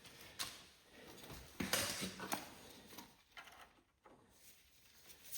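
Faint knocks and clicks of hand tools on metal, a few scattered ones in the first half, then near silence.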